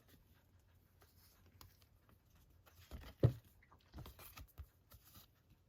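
Glossy photo cards handled by hand: soft rustling and light taps, with one louder short knock about three seconds in.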